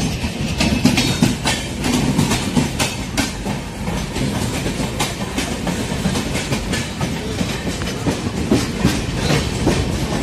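Passenger train running along the track, its wheels clacking over rail joints in a quick, uneven series over a steady rumble.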